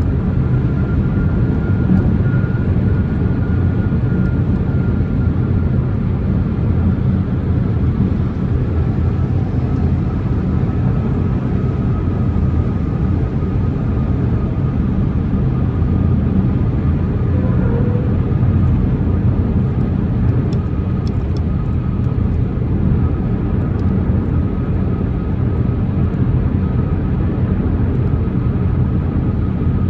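2024 BMW M4 Competition on the move: steady, even engine and road noise with no revving, and a faint high tone drifting slowly lower through it.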